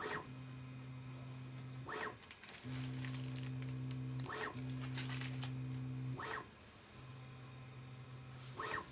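Bambu Lab A1 Mini 3D printer running its first calibration: its stepper motors hold a steady low hum for a second or two at a time, broken every couple of seconds by a short whir as the bed or toolhead makes a quick move.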